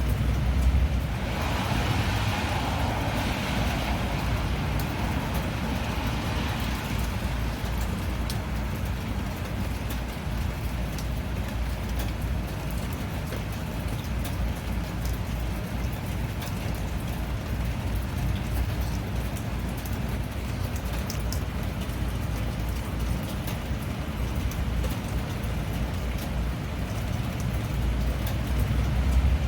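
Steady rain with a low rumble of traffic on a wet road and scattered drop ticks. A louder hiss swells and fades over the first several seconds.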